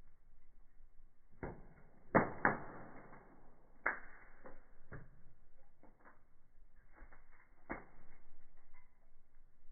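Wood fire in a fireplace crackling, with irregular sharp pops; the loudest two come close together about two seconds in, and another about four seconds in.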